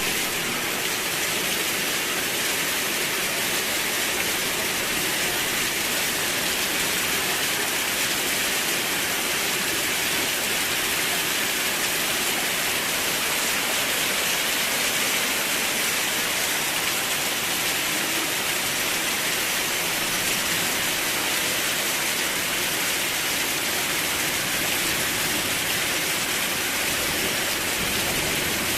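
Steady heavy rainfall, an even hiss of many drops with no let-up or change.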